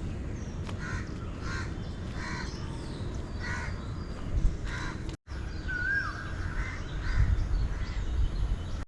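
A crow cawing over and over, about two caws a second, for the first half. After a cut, a single short whistled bird call is heard, and a low rumble builds near the end.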